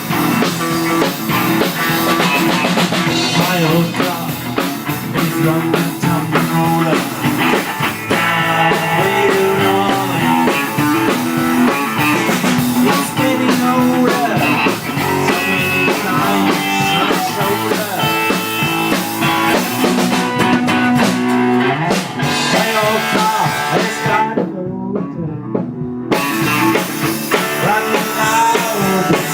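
Rock band instrumental intro, electric guitars and drum kit playing. For about two seconds near the end, the drums and the highs drop out and only the lower guitar or bass parts carry on, before the full band comes back in.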